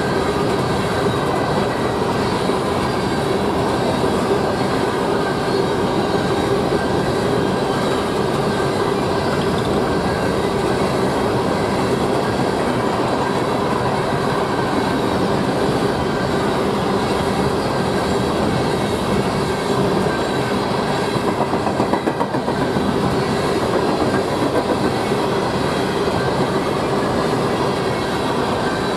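Empty steel coal cars rolling past at speed: a steady rumble and clatter of wheels on rail, with a thin steady ringing tone above it.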